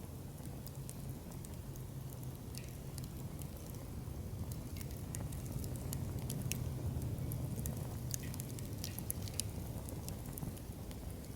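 Wood fire burning in a campfire pit, crackling with many irregular sharp pops over a steady low rumble.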